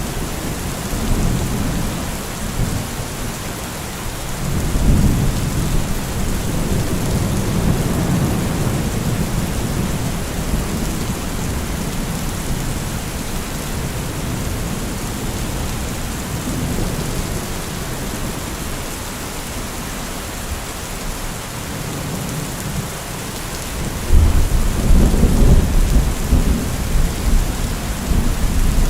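Steady rain falling with rolling thunder rumbling low under it. A louder, sudden peal of thunder breaks in near the end.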